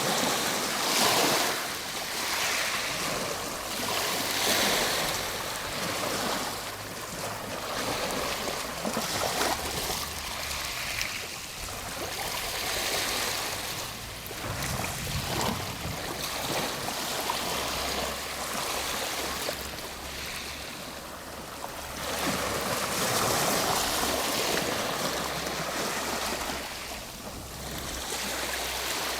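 Ocean waves breaking and washing on the shore, a continuous surf rush that swells and falls back every few seconds.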